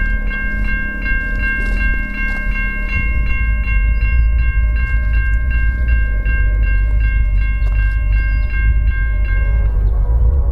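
Grade-crossing warning bell ringing rapidly and steadily over the low rumble of a passing Amtrak passenger train. The bell stops shortly before the end.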